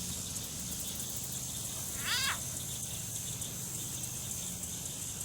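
A single short, high call from a hatchling alligator about two seconds in: one quick chirp with a falling pitch.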